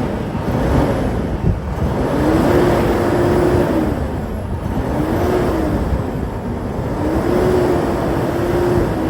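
Kenworth W900 mixer truck's diesel engine running, its pitch rising, holding and falling back several times as it is revved.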